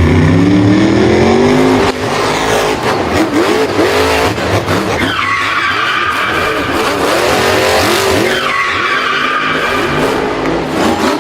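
Vehicle engine revving up, with tyres skidding and two high squeals falling in pitch partway through.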